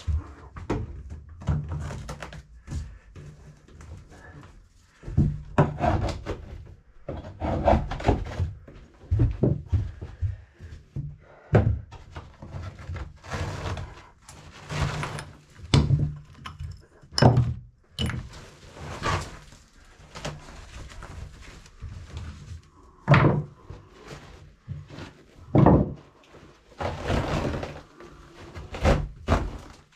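Old carpet being pulled up from wooden stairs by hand: a run of irregular thuds and knocks with bursts of rough tearing and scraping.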